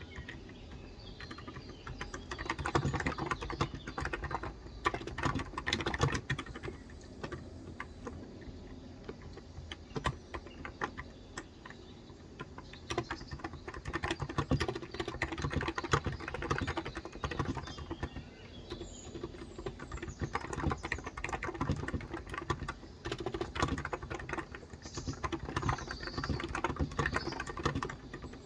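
Typing on a COX Endeavour electro-capacitive (Topre-style, 35 g) tenkeyless keyboard: dense runs of soft keystrokes with brief lulls between them.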